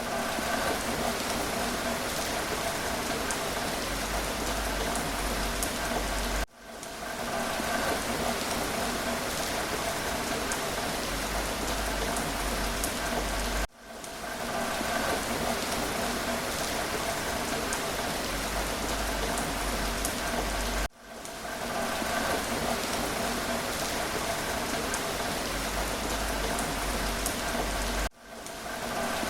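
Steady rain falling on a surface, a dense even patter. About every seven seconds it cuts out for an instant and fades back in, the seams of a short rain recording played on a loop.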